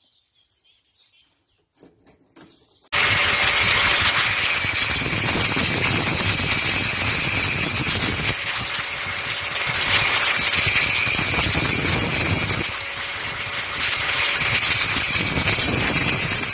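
A power tool starts suddenly about three seconds in and runs steadily, cutting the 3.15 mm wire, with slow swells and dips in level as it works.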